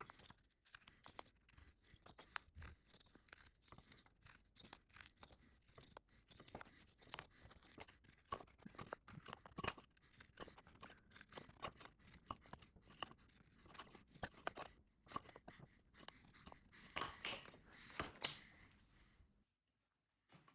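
Quiet, irregular scratching and tapping of marking tools on wood: a marking gauge and knife scoring dovetail layout lines in ash. The strokes are short and uneven in loudness and stop abruptly near the end.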